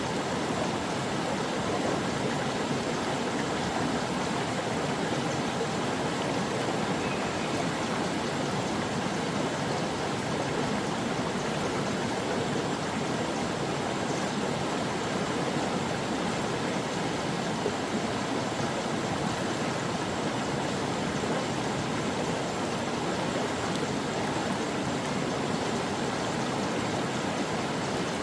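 Steady rushing and babbling of a mountain stream's water flowing over rocks.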